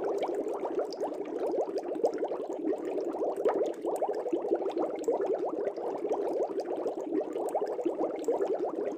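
Air bubbles rising through aquarium water, a continuous, dense bubbling that stays even throughout.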